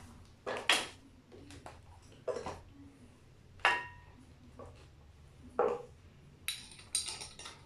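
Scattered metallic clinks and knocks of a hand tool against brake booster parts while a part is worked loose, one strike ringing briefly, with a quick run of light clicks near the end.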